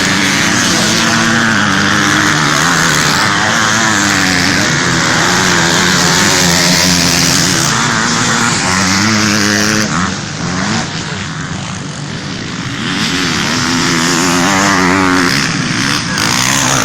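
Several motocross bikes racing, their engines revving up and down. The sound eases for a few seconds past the middle, then builds again.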